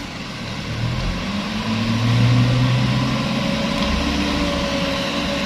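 Truck diesel engine under heavy throttle on a slippery climb, its note swelling and rising about two seconds in, then holding steady.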